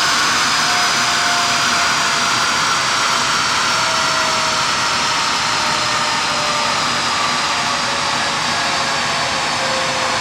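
Ferrari 458 Spider on a chassis dyno: a loud, steady rushing with several whining tones that fall slowly in pitch, as the car and rollers spin down.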